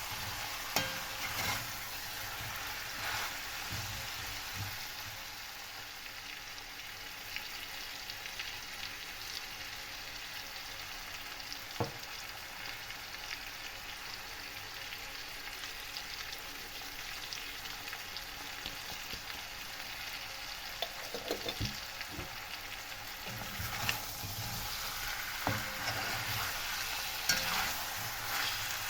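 Food frying in a pan with a steady sizzle. Scattered clicks and knocks of a utensil stirring against the pan, bunched together in the second half.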